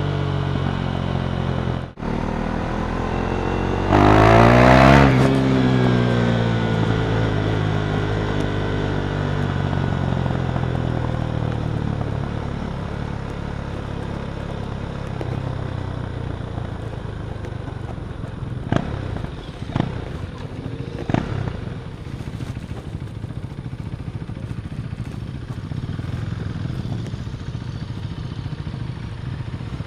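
KTM Duke 390's 373cc single-cylinder engine running through an Akrapovic exhaust, revved once sharply about four seconds in, then settling back and fading away. Three sharp clicks come near the two-thirds mark.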